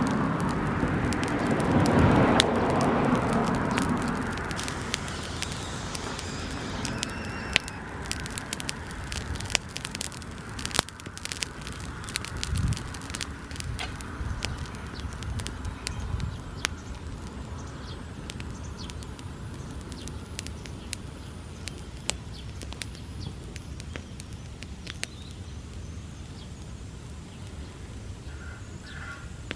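Bonfire of dry summer grass burning: a loud rush of flame and dense crackling for the first few seconds that dies away, leaving scattered sharp pops and crackles.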